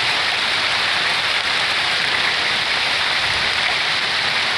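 Pea- and marble-sized hail falling hard with rain, a dense, steady patter of hailstones striking hard surfaces.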